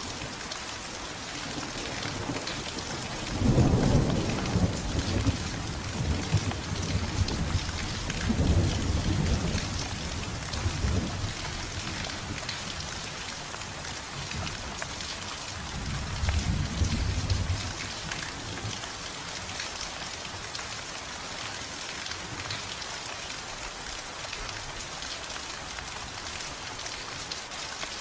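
Steady heavy rain with rolls of thunder: a loud low rumble a few seconds in, another a few seconds later, and a shorter one just past the middle.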